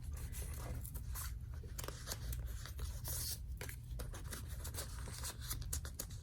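Paper rustling and sliding: small paper journaling cards being handled and slid in and out of a paper pocket, with many quick crinkles and light taps.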